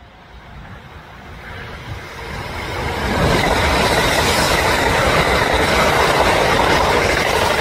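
A train running on rails: its noise swells over a couple of seconds into a loud, steady rush of wheels on track.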